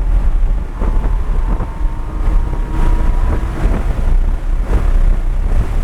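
Lamborghini Huracan's V10 engine pulling hard under full acceleration, heard inside the cabin with a heavy low rumble and wind noise, its pitch slowly rising.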